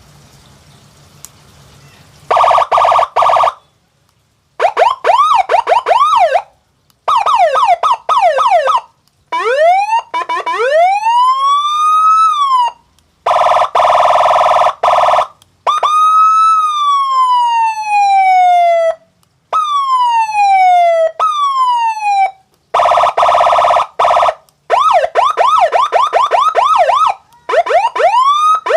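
Electronic double-tone siren module switching through its different siren sounds, starting about two seconds in. It plays fast warbling yelps, a pitch sweeping up again and again and then in one long rise, a long falling wail, and quick falling sweeps. Between these come short bursts of a steady pulsing horn-like blast, with brief gaps as the sound changes.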